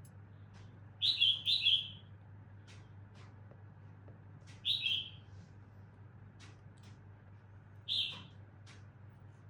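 A bird chirping: short high chirps, twice in quick succession about a second in, then once near 5 s and once near 8 s, with faint light clicks between them over a low steady hum.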